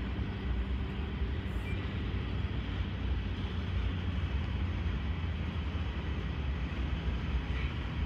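Canadian Pacific freight train's flatcars rolling slowly past, a steady rumble of steel wheels on the rails.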